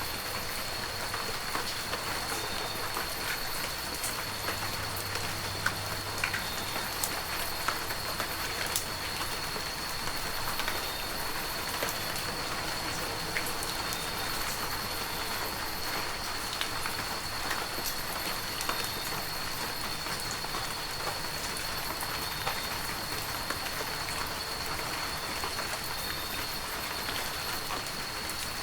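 Heavy rain falling steadily, with many individual drops ticking sharply against surfaces. A faint, steady high-pitched tone runs underneath.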